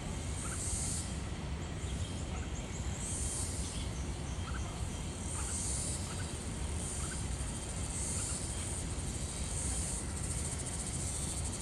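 Insects droning high-pitched in repeated swells about once a second or so, with a few short, faint bird chirps over a steady low rumble.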